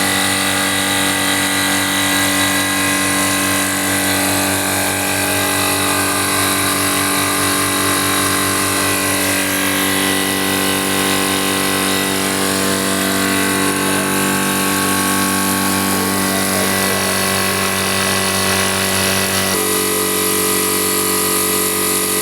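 Air compressor running with a steady, loud mechanical hum, its tone shifting slightly about twenty seconds in.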